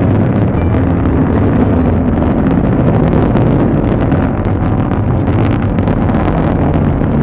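JAXA H3 rocket's engines heard from a distance: a loud, steady deep rumble with continuous crackling.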